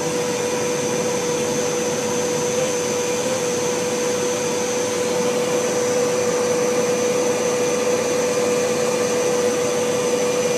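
Unidentified steady droning hum, offered as a strange sound in the sky: one held mid-pitched tone with a fainter high whine over a rushing noise, unchanging throughout.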